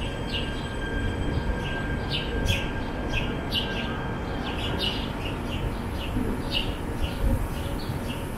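Stadler X15p light-rail train pulling away from the platform, a low rumble with a steady electric whine that fades out about halfway through as it draws off. Birds chirp over it, one or two short calls a second.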